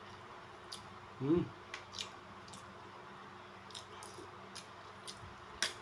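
A person chewing a mouthful of rice and sweet potato leaf salad eaten by hand: soft wet mouth noises and small lip-smack clicks, with a brief hum about a second in.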